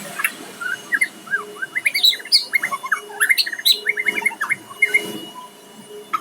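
White-rumped shama (murai batu) singing: a fast, varied run of short whistled and chirping notes, densest in the middle and thinning near the end.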